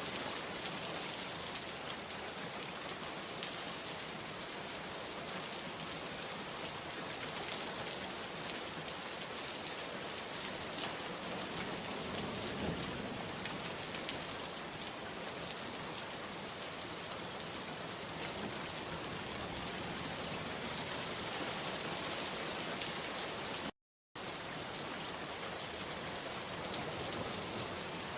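Steady rain falling and pattering on surfaces, with individual drops ticking through the even hiss. About three quarters of the way through the sound cuts out completely for a fraction of a second, then resumes.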